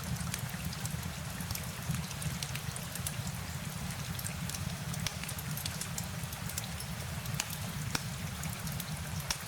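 Steady rain with a low rumble beneath it and many sharp, scattered drip ticks.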